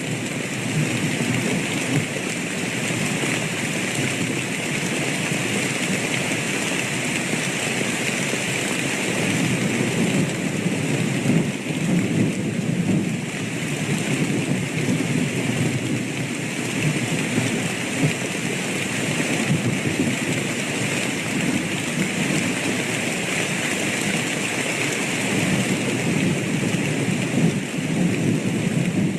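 Steady rain falling, with low thunder rumbling under it in slow swells.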